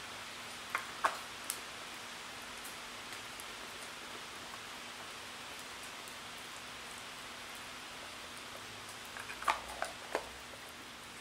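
Small wood fire burning in a Firebox camp stove: a steady hiss with a few sharp crackles and pops, a handful about a second in and another cluster near the end.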